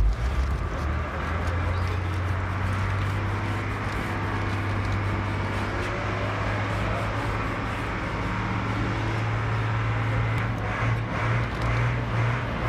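A motor running steadily with a low hum. About ten seconds in it begins to pulse, roughly two beats a second.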